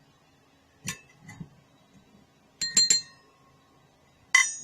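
Measuring utensils clinking against a container while powder is measured out: a couple of soft knocks, then a quick run of three ringing clinks about three seconds in, and one loud ringing clink near the end.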